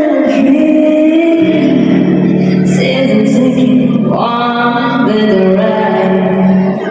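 A female vocalist singing a song with musical accompaniment, holding long, wavering sung notes. A steady low accompaniment note comes in about a second and a half in.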